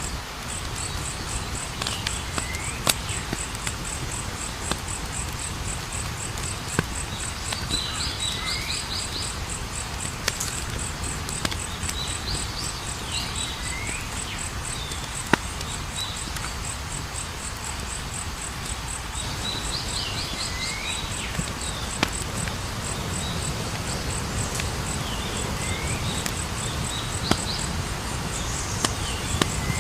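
Campfire burning with scattered sharp crackles and pops, under a steady, fast-pulsing high insect trill. Groups of short falling bird calls recur every few seconds.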